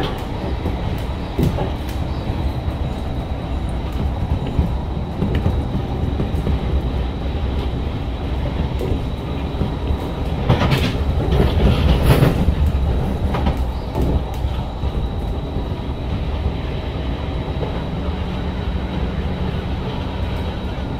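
Running noise inside an SMRT C151 metro train on the move: a steady low rumble of wheels on rail with scattered clicks and a thin, steady high tone. About halfway through it grows louder for a few seconds with a run of sharp clacks from the wheels.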